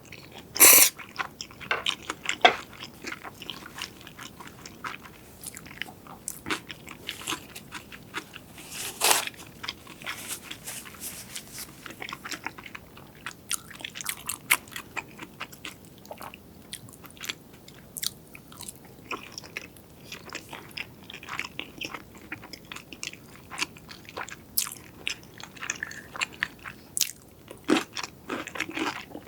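Close-miked eating of crunchy fried food: crisp bites and chewing with many small crackles. There are louder bites near the start, about nine seconds in, and near the end.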